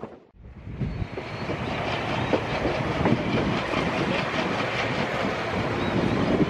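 Train in motion heard from on board: a steady rumble and rattle of the coaches with wheels clacking over the rail joints. It fades in from a brief hush at the start.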